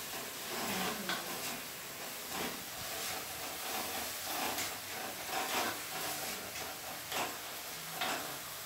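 Chopped onion and tomato sizzling in oil in a hammered brass kadai, a steady frying hiss, while a wooden-handled spatula stirs and scrapes across the pan in repeated strokes.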